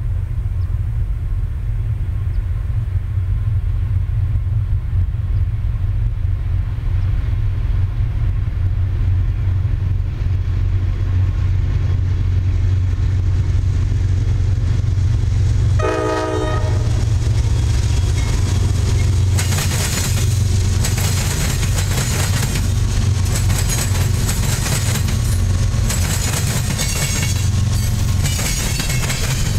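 Freight train led by a GE C40-9W diesel locomotive approaching with a steady low rumble, a brief horn blast about halfway through, then the cars' wheels banging and clattering rapidly over a railroad diamond crossing.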